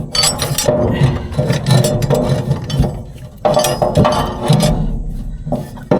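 Metal parts clinking and knocking as locking collars are slid and fitted onto the drive shaft of a Hesston haybine, with a string of short clicks and a few louder knocks.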